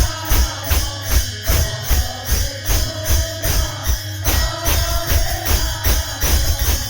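Devotional kirtan music: a fast, steady beat of jingling metal percussion over a drum, about four strokes a second, with held melodic tones.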